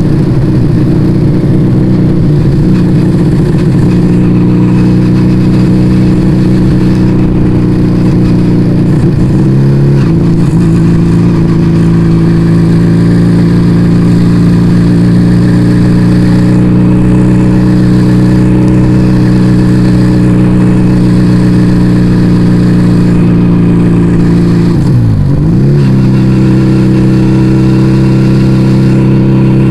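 Yamaha Vega ZR motorcycle's four-stroke engine, breathing through an aftermarket Arrow exhaust, running steadily under way. Its pitch dips and climbs back quickly twice, about ten seconds in and near twenty-five seconds.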